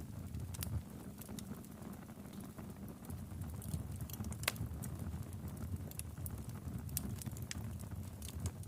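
Wood fire in a fireplace crackling: irregular sharp pops and snaps over a steady low rumble of the flames, with one louder pop about four and a half seconds in.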